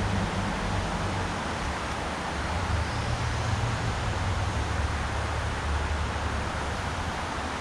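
Mountain river water rushing steadily: an even hiss with a low rumble underneath.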